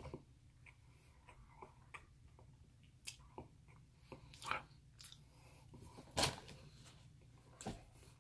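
A person chewing and biting an almond cookie: soft, irregular crunches and mouth clicks, with a few louder crunches around three, four and a half, and six seconds in.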